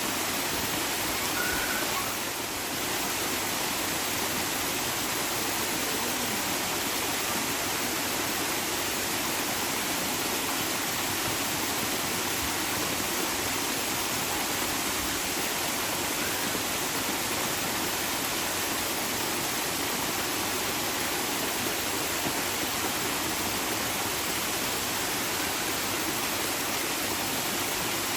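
Steady rushing water, an even, unbroken wash of noise with no distinct splashes or drips.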